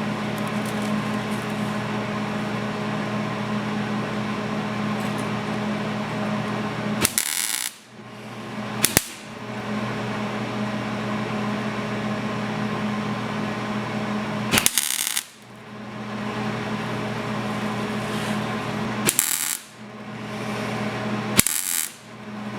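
Welder making about five short tack welds on a sheet-steel body patch, each a brief crackling burst under half a second, over a steady background hum.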